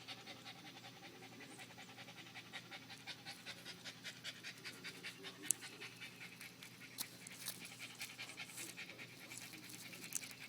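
Faint, rapid panting at about three to four breaths a second, with a few sharp clicks in the second half.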